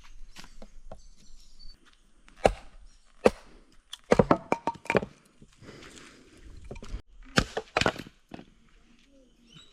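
Wood being chopped: a series of sharp knocks at irregular intervals, several coming close together about four seconds in and two more near the end.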